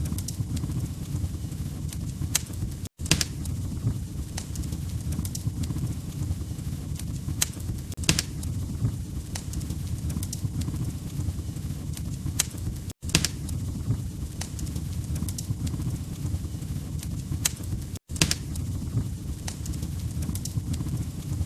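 Log fire crackling in a fireplace: a steady low rumble with frequent sharp pops and crackles. The sound cuts out for an instant about three seconds in, about thirteen seconds in and about eighteen seconds in.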